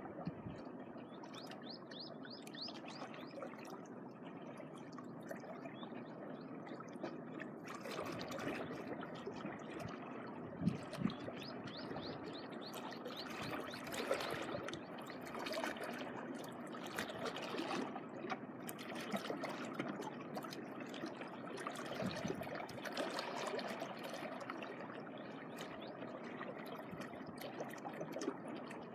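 Small waves washing and trickling over a sandy shore, swelling and easing irregularly.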